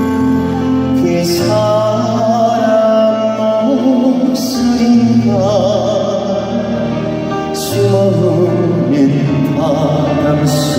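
Live band playing a slow Korean trot ballad, its melody held in long notes with a wavering vibrato, and a cymbal crash about every three seconds.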